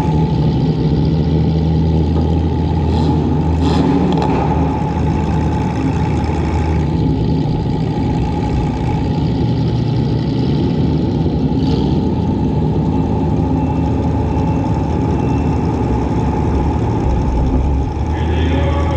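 Compact demolition derby car's engine running hard, heard from the onboard camera, with a few short sharp knocks about three to four seconds in and again near the middle.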